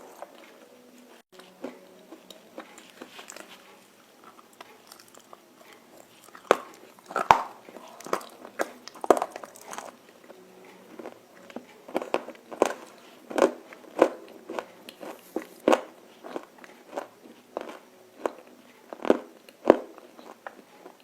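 A person biting into and chewing pieces of roasted edible clay. Softer chewing comes first, then from about six seconds in a run of sharp, crisp crunches, one every half second to a second.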